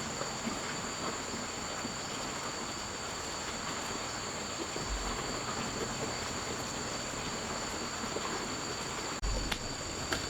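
Insects chirring steadily in two high, unbroken tones over a constant hiss of background noise. The sound breaks off briefly about nine seconds in.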